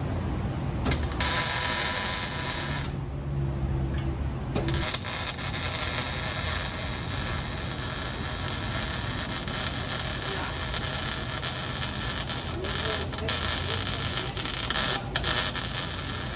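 Cut-off tool grinding through the steel exhaust pipe to remove the resonators, throwing sparks. It starts about a second in, stops briefly, then cuts steadily with a few short breaks near the end.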